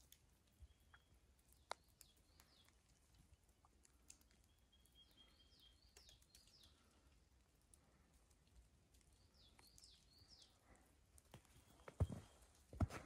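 Near quiet in a snowy pine forest, with a small bird giving faint short chirps in little groups every few seconds. About twelve seconds in, footsteps start crunching and thudding in snow.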